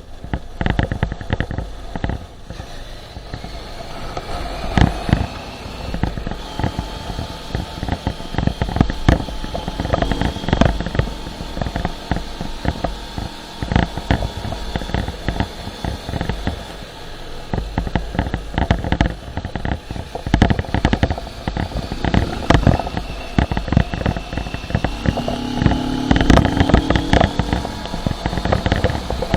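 Motorcycle engine running on the move, its pitch rising and falling with the revs, under constant wind buffeting on the microphone.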